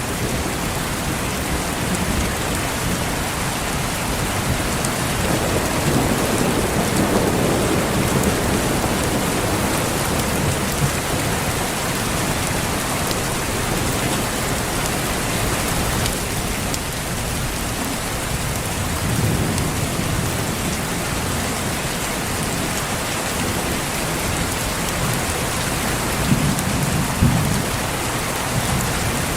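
Steady heavy rain pattering, with low rolls of thunder swelling up a few times: about a fifth of the way in, around two-thirds, and again near the end.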